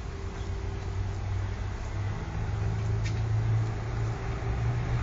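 Low steady engine hum that grows louder about two seconds in.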